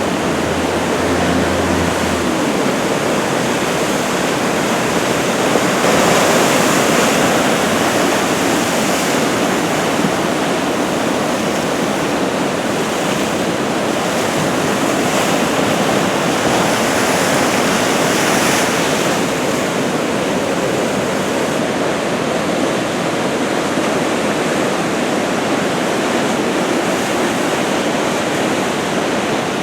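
Head-high ocean surf breaking and washing ashore, a continuous rush of water that swells louder about six seconds in and again around fifteen to nineteen seconds in, as sets of waves break.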